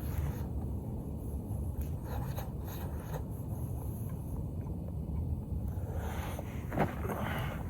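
Brief scraping and rubbing sounds, a few near the start and a cluster near the end, over a steady low rumble.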